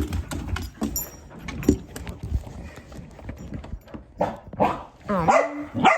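Dogs scuffling in play, with repeated light clicks and knocks, and a dog giving a few short pitched vocal sounds in the last two seconds.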